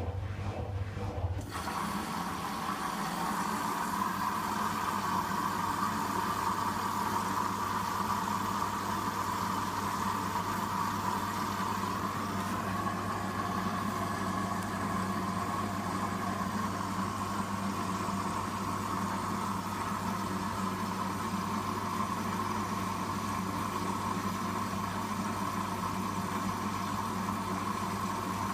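Water rushing steadily through a Hoover WDYN 11746 PG8 washer-dryer during its rinse stage, starting abruptly about a second in, over a low hum.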